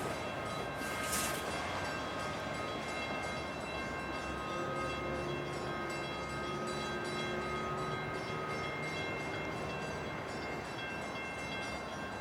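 Commuter train at a station: a steady whine of several high tones over a low rumble, with two short bursts of noise about a second apart near the start.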